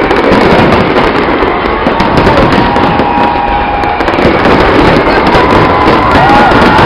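Fireworks display: a loud, dense, continuous barrage of bangs and crackling, with a few thin whistling tones over it.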